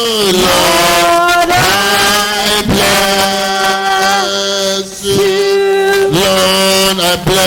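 A voice singing a slow, chant-like worship melody of long held notes that slide between pitches, over a steady low held tone.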